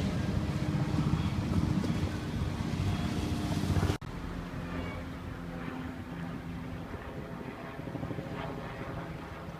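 Wind rumbling on the microphone over a steady low engine hum. About four seconds in the sound cuts abruptly to a quieter level, and the hum carries on more faintly.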